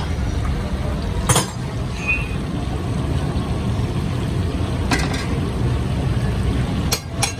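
Steady low rumble of a busy kitchen with a few sharp metallic clinks of cookware, once about a second in, once midway and twice in quick succession near the end.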